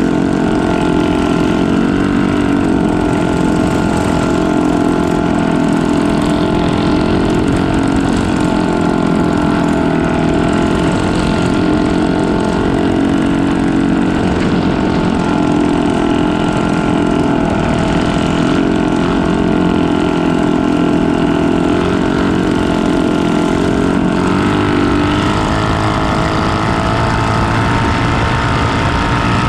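Boat engine running steadily and loudly, its pitch wavering slightly, with a change in its low tone about 25 seconds in.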